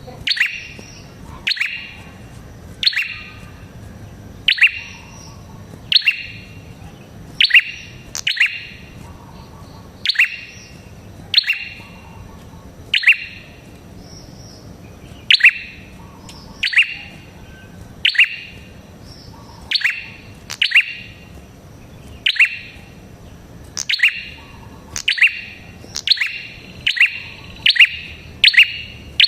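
Prenjak kepala merah calling: a loud, sharp note repeated about every second and a half, each a quick downward sweep. The calls come faster near the end.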